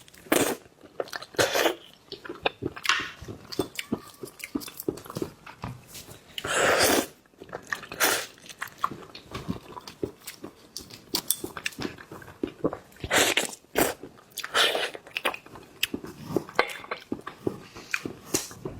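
Close-miked eating: biting and crunching through the shells of marinated mantis shrimp, with chewing and crackly shell clicks at an irregular pace.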